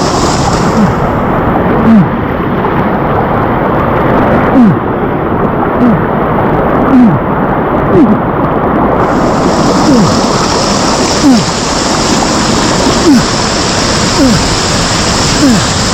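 Loud, steady rush of fast water in a mountain stream or waterfall close by, with a short low falling tone repeating about once a second.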